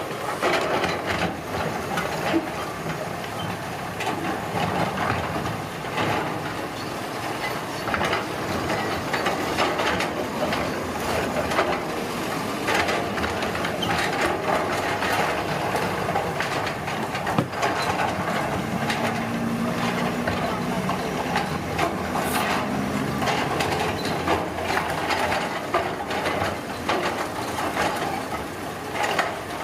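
Road-construction machinery working: a diesel engine running under a steady clatter of scraping, crunching and knocking, with a low engine drone that stands out for a few seconds past the middle.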